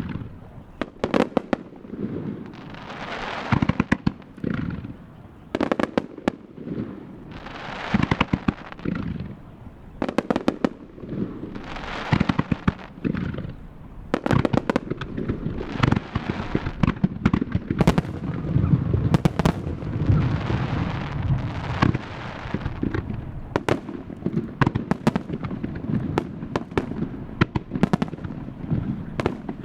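Japanese starmine fireworks barrage: shells bursting in rapid succession with many sharp bangs, hissing crackle swelling between them, and a denser low rumble from the volleys in the second half.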